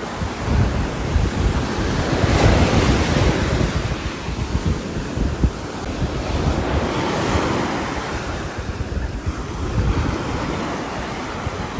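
Steady rushing rain noise with wind. It swells twice in gusts, and the wind buffets the microphone with a low rumble.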